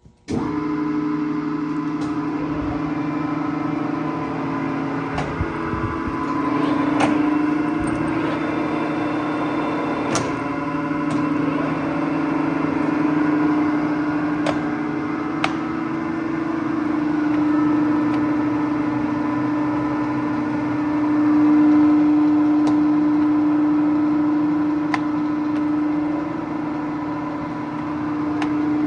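Clausing Colchester 17-inch engine lathe running under power: a steady mechanical hum with several steady whining tones, starting abruptly, with a few faint sharp clicks along the way.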